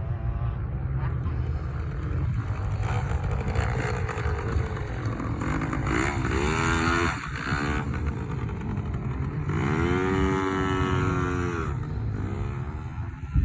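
Small dirt bike engine revving up and falling back in three bursts, about six, ten and twelve and a half seconds in, over a steady low rumble.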